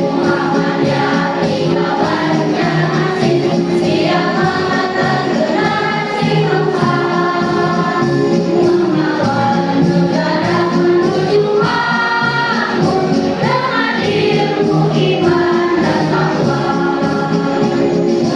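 School choir singing together over musical accompaniment, the voices moving through sustained, shifting notes.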